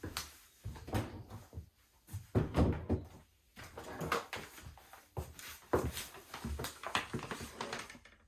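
Household handling sounds: a string of irregular knocks, clicks and rustles as things are moved about, like a door or cupboard being opened and shut.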